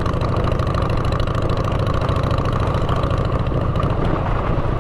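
Motorcycle engine running steadily through aftermarket exhaust pipes, a low, even rumble with a fast regular firing pulse and no change in revs.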